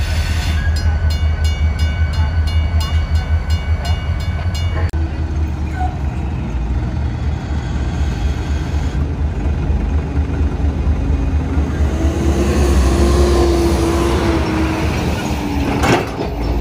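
Diesel freight locomotives rumbling steadily while switching cars. For the first few seconds a grade-crossing bell rings about three times a second, then stops.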